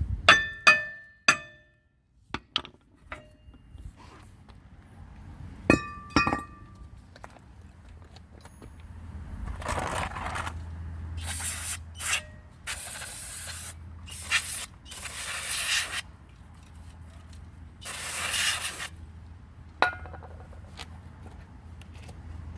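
Metal brake parts clinking and ringing a few times, then a series of hissing bursts, each about a second long, over a steady low hum.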